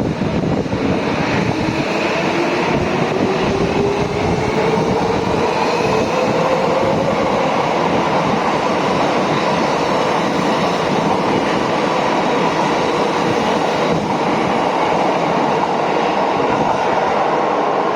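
Tokyo Metro 07 series electric train accelerating, its motor whine rising in pitch over the first several seconds, then running on with a steady rail noise.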